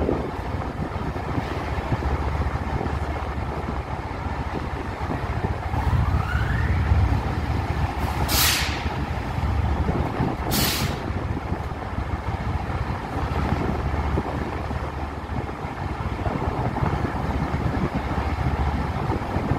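Train running slowly with a steady low rumble. A brief rising whine comes about six seconds in, then two short sharp hisses about two seconds apart.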